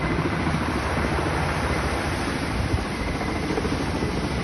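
Steady rush of water and wind, with wind buffeting the microphone.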